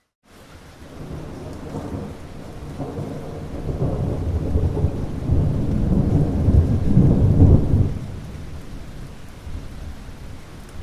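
Rain falling steadily under a long roll of thunder. The rumble builds from about a second in, is loudest over the middle and dies away about three-quarters of the way through, leaving the rain.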